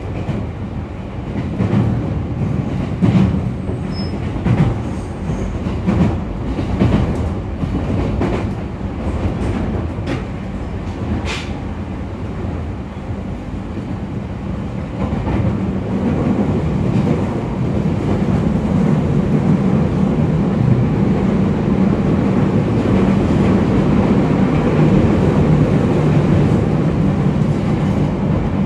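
JR E231 series 0 electric commuter train running, its wheels clicking irregularly over rail joints in the first part. From about halfway through, the running noise steadies and grows louder.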